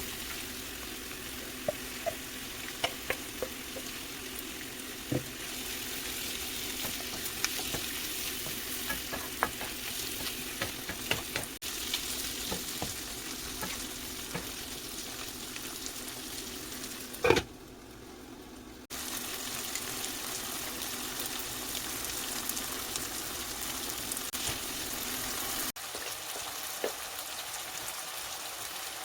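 Chicken hearts curry sizzling in a pan as it is stirred, with the spoon clicking and scraping against the pan now and then and one louder knock about seventeen seconds in.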